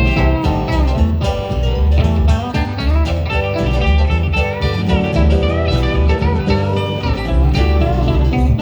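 Instrumental country-style music without singing, led by plucked guitar with a steady bass underneath.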